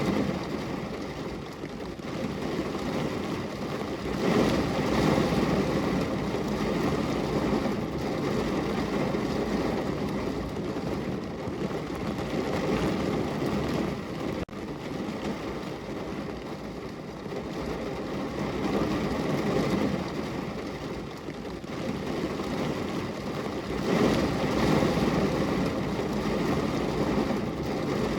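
Heavy rain falling in a steady hiss and patter that swells louder and eases off in waves, with a momentary break about halfway through.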